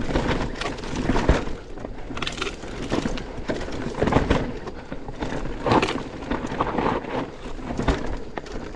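Mountain bike riding down a rough, rocky dirt trail: tyres crunching over rock and dirt, with irregular knocks and rattles as the bike jolts over the rocks.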